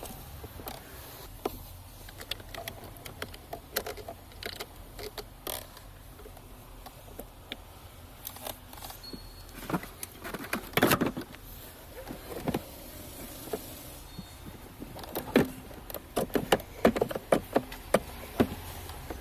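Irregular clicks, taps and knocks of hand tools and metal parts being handled during car battery replacement work, with a louder cluster of knocks about halfway through and a quick run of sharp knocks near the end, over a low steady hum.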